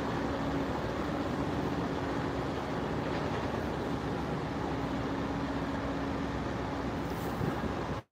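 Steady rumble of an Amtrak train on the tracks beside the platform, with a faint hum that fades in and out.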